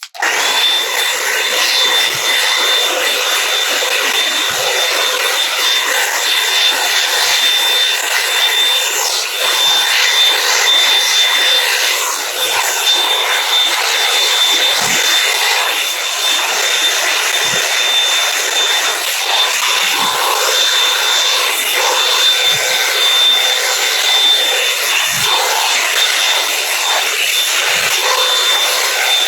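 Revlon One Step hot-air brush dryer blowing steadily: a loud rush of air with a thin high whine, starting abruptly at the beginning. Now and then there are faint low bumps.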